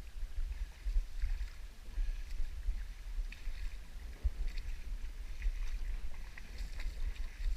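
Kayak paddling in a shallow creek: soft water splashes from the paddle every second or so over a low rumble.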